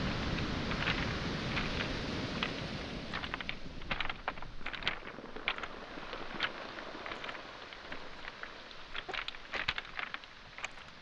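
A wave's wash on a pebble shore fading away over the first few seconds, followed by irregular sharp clicks and clacks of pebbles and stones knocking together.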